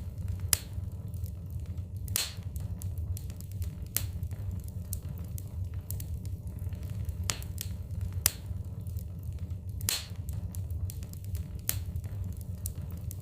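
Wood fire crackling in a fireplace: irregular sharp pops and snaps, several a second, some louder than others, over a steady low rumble.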